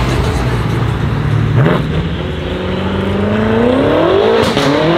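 BMW M5 accelerating away. After a short steady stretch its engine note climbs steadily in pitch through one gear for about three seconds, with a few sharp cracks from the exhaust near the end.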